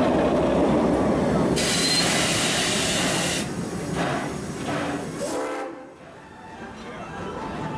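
Crown steam locomotive and train running by, loud at first and then fading away, with a hiss of steam lasting nearly two seconds about one and a half seconds in.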